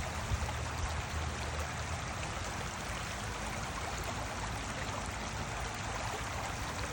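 A creek's water running steadily, an even rushing noise.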